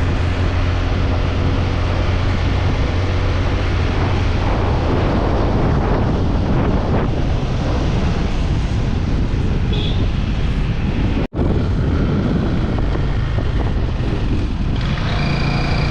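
Motorcycle riding at speed: steady wind buffeting the microphone over the engine's low running note, which the rider calls hoarse and puts down to overdue engine oil. A higher steady tone joins near the end.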